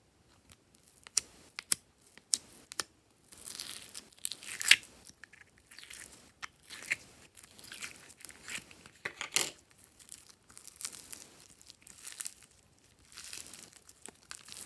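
Hands working glossy slime: sticky clicks at first, then uneven bursts of crackling as the slime is stretched, pulled apart and pressed.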